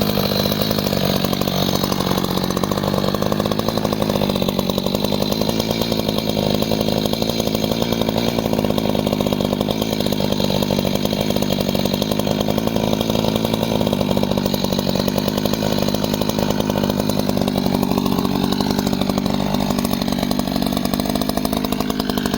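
Power saw running steadily at full speed, cutting through a downed log.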